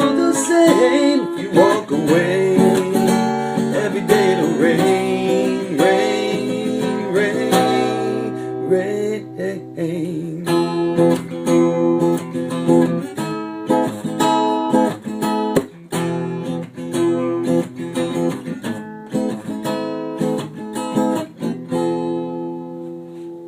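Acoustic guitar strummed with a voice singing over it for roughly the first nine seconds. Then the guitar plays on alone, strumming repeated chords that die away as the song ends.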